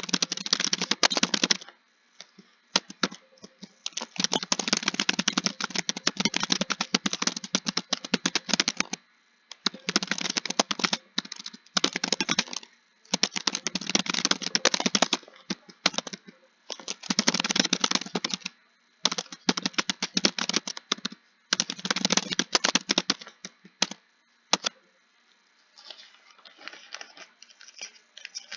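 Typing on a computer keyboard: fast runs of key clicks lasting a few seconds each, broken by short pauses. The last few seconds hold sparser, quieter key presses.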